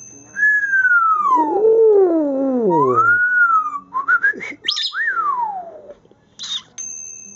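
Parrot whistling: one long whistle that slides steadily down in pitch, then shorter whistles that rise and fall, mixed with a few short sharp calls near the middle.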